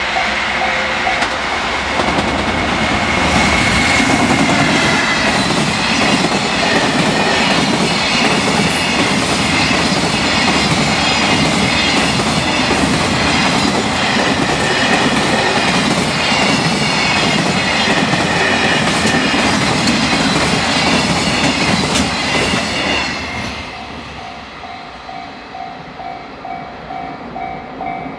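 A long freight container train passes at speed, its wheels clattering over the rail joints in a loud, dense rush. About 23 seconds in the train's noise falls away, leaving the level-crossing bell ringing in a steady repeating tone.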